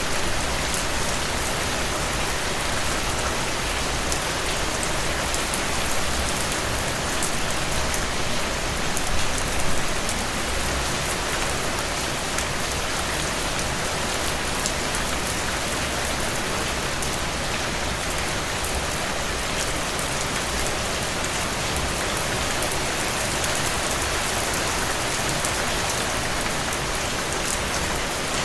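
Steady rain falling on a surface, an even hiss with many fine drop patters, a little heavier for a moment about nine seconds in.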